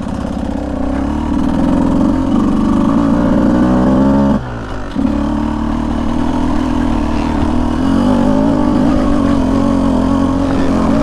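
Beta 200 two-stroke dirt bike engine running under throttle, its pitch climbing slightly. About four seconds in the throttle is chopped and the engine note drops sharply, then it picks back up and holds steady.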